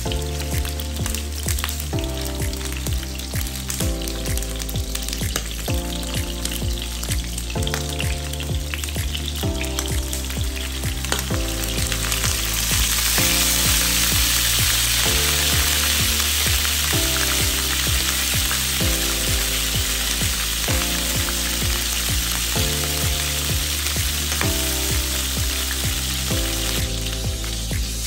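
Salmon steak sizzling in hot oil in a frying pan, a steady crackling hiss that grows louder about twelve seconds in. Background music with chords changing about once a second plays under it.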